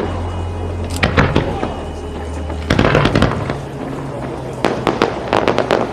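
Fireworks display with shells bursting in quick clusters of sharp bangs and crackles, about one second in, around three seconds in, and again from about four and a half seconds to the end, over a steady low rumble.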